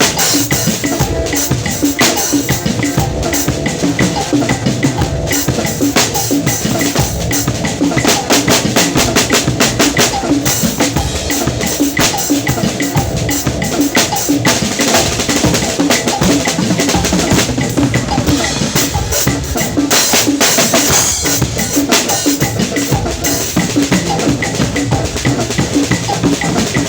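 Drum kit being played continuously: bass drum, snare and cymbals, with a stretch of fast, dense strokes about a third of the way in.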